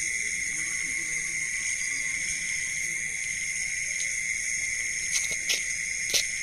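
Night-time chorus of crickets and other insects: a steady, high-pitched drone in several layers, with a few brief clicks near the end.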